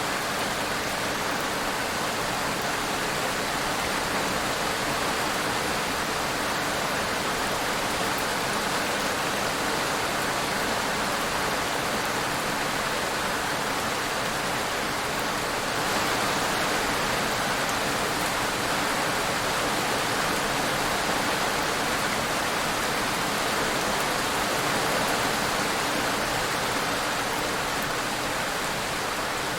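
Steady rain, falling as an even hiss with no distinct drops standing out, a little louder from about halfway through.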